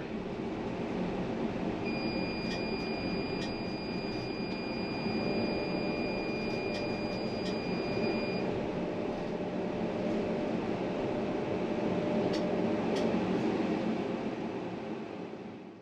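Lyon T1 tram: steady rumble of the running gear and ventilation. A high, steady electronic tone starts about two seconds in and stops after about six seconds. The sound fades out near the end.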